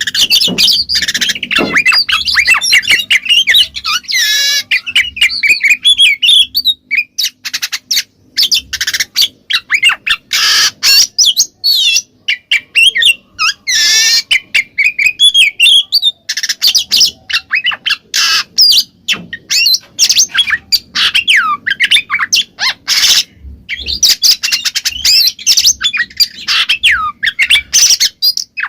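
Oriental magpie-robin (kacer) singing in full, continuous song: a rapid, varied run of whistled sweeps and trills mixed with harsh, scratchy notes.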